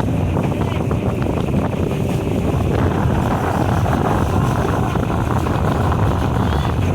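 Motorboat under way: a steady drone of the motor and water, with heavy wind rumble on the microphone.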